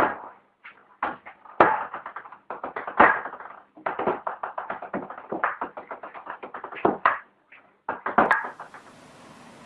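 A fast, irregular run of taps and knocks, several a second, that stops about eight and a half seconds in and gives way to a steady hiss.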